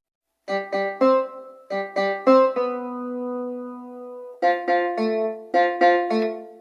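Instrumental music: a keyboard plays struck chords in quick groups of three, with one chord held for about two seconds in the middle.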